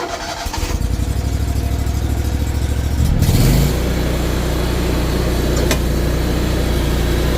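Toro commercial lawnmower engine just started and running. About three seconds in it is throttled up with a rising pitch, then runs steadily at higher speed.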